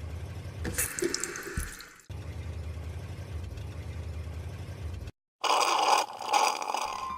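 Cartoon sound effects of water running from a tap and splashing into a bucket, with a louder rush of water near the end, over a steady low hum.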